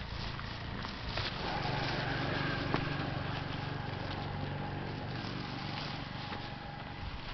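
Typhoon storm wind blowing in gusts: a low rumble that swells about a second and a half in and then eases. A faint steady whistle and scattered small clicks and knocks run through it.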